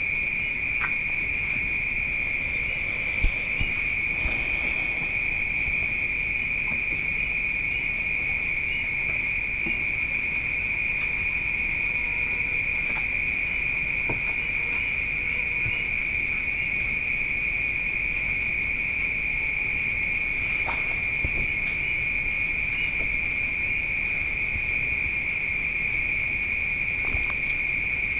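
Night insects, crickets, chirring in a steady chorus at two high pitches, with a faster, higher trill joining twice; a single faint click about three seconds in.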